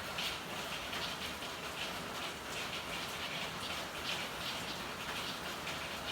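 Steady rain falling: an even hiss with a quick, irregular patter of brighter drop hits.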